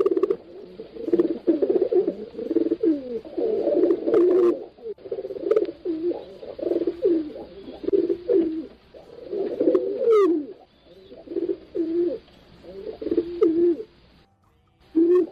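Pigeons cooing almost without a break, their low calls overlapping, with a short pause near the end. A brief high rising chirp sounds about ten seconds in.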